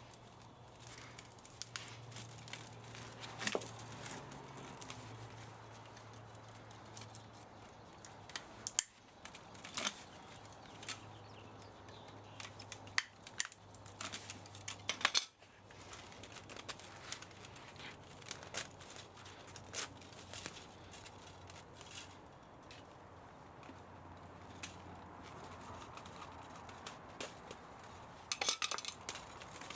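Irregular snips and metallic clicks of hand tools cutting and prying at an old spa motor being stripped for its copper and aluminum, with a faint low hum underneath.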